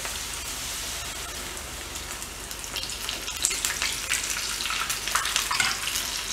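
A battered sweet potato and shrimp fritter deep-frying in hot oil over medium heat: a steady sizzle, with sharper crackles and pops from about three seconds in.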